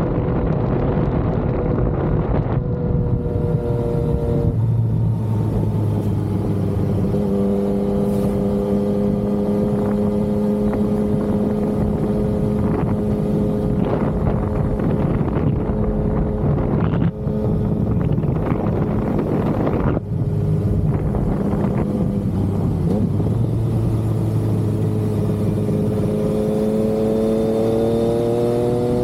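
Yamaha XSR900's inline three-cylinder engine running under way at moderate revs, with wind and road noise. Engine pitch shifts a few times, the sound briefly breaks twice around the middle, and the revs climb near the end.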